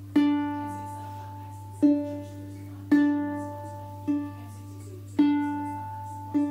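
Single notes plucked one at a time on a ukulele's D strings, six plucks about a second apart, each ringing and dying away. They are mostly the same pitch: the string sold as a low D sounds as a high D. A steady low hum runs underneath.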